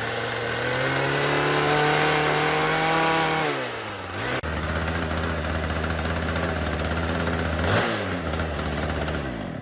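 Two-stroke petrol engine of a restored K950 concrete cut-off saw running. The revs rise and fall over the first four seconds or so, then it settles to a steady idle with one brief blip of the throttle near the end.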